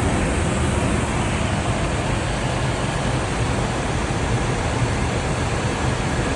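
Steady rush of airflow noise from an aircraft moving at speed.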